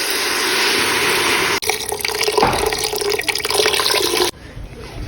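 Water running into a kitchen sink or pot, a steady rushing hiss, broken by abrupt cuts about a second and a half in and again near the end.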